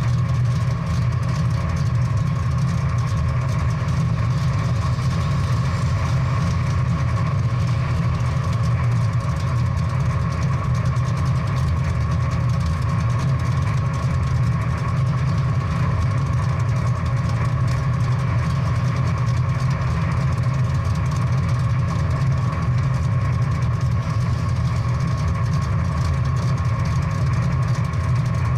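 Big-block V8 muscle car engine idling steadily, the sound sitting low and deep with no revs or changes.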